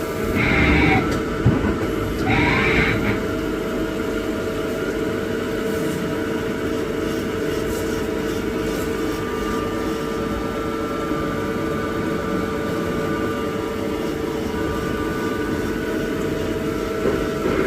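CNC machine tool running with a steady, even hum. Two short, louder and harsher bursts come around one and three seconds in.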